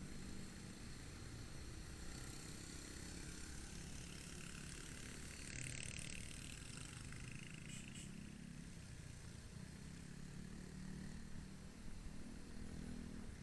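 Motorcycle running along a road, its engine a steady hum under road and traffic noise.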